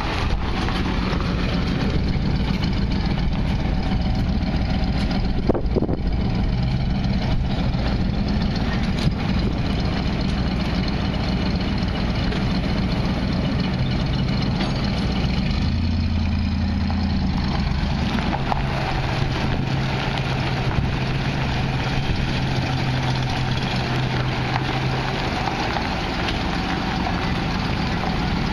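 1967 Ford Custom's 427 cubic-inch big-block V8 idling steadily.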